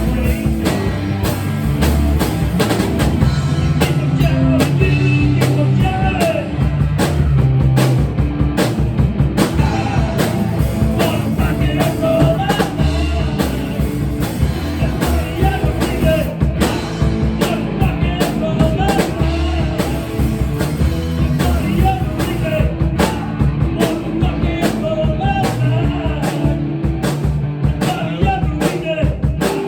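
Rock music: a drum kit playing a steady, driving beat under other instruments.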